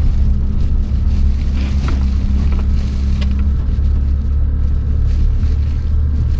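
A car driving through deep puddles on a flooded road: a steady low rumble of engine and tyres, with water sloshing around the wheels. A steady hum drops away about three and a half seconds in.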